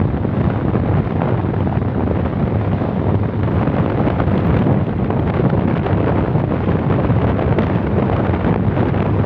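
Steady wind rush buffeting the microphone over the road and engine noise of a moving vehicle travelling along a highway.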